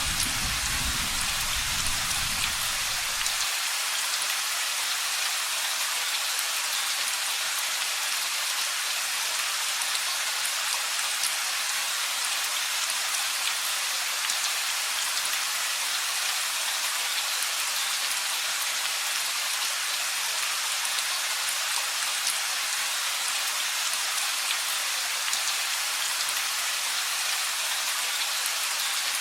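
Steady rain falling, a dense even hiss of drops. A low thunder rumble dies away in the first few seconds and cuts off suddenly about three and a half seconds in.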